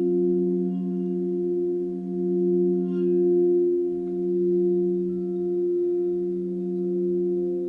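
Singing bowls ringing in long, overlapping sustained tones: several steady pitches held together, the sound swelling and easing in a slow wavering pulse every second or two.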